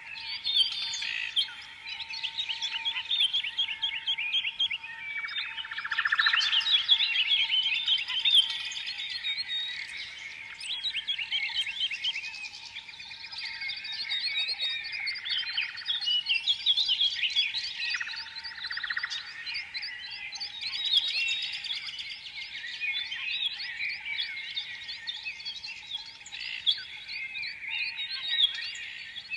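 Many small songbirds chirping and trilling at once in a dense, continuous chorus of quick, overlapping high notes.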